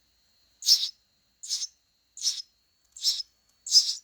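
Baby bird chirping: a short, high chirp repeated evenly about every three quarters of a second, five times.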